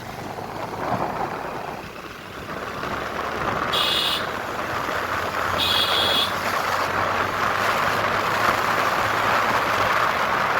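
Wind and road noise from riding a motorcycle, growing louder a couple of seconds in. Two short high-pitched vehicle horn beeps come near the middle.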